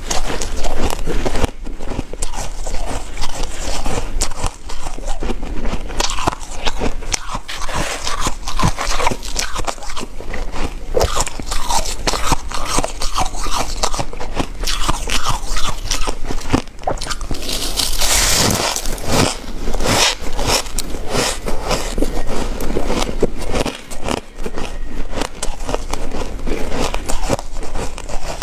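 Ice being bitten and chewed close to the microphone: a dense, irregular run of sharp, crackly crunches, with a brighter, hissier crunch about two-thirds of the way through.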